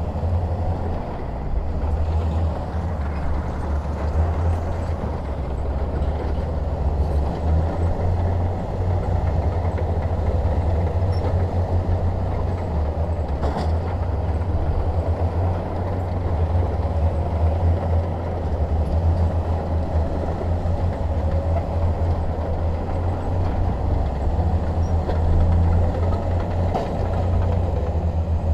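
Shantui DH17 crawler bulldozer's diesel engine running steadily with a deep low drone.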